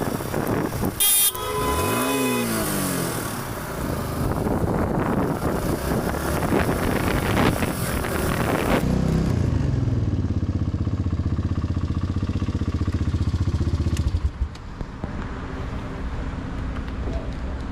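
Motorcycle engine and wind rush heard from the rider, with the engine note dipping and climbing about two seconds in. The rushing dies down after the middle to a steady low engine note, which drops away a few seconds later.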